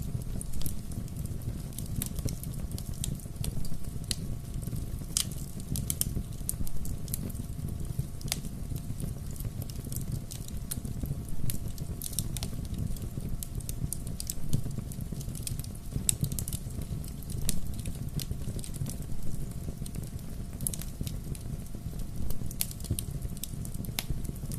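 Wood fire burning with a steady low rumble, and irregular sharp crackles and pops from the burning wood throughout.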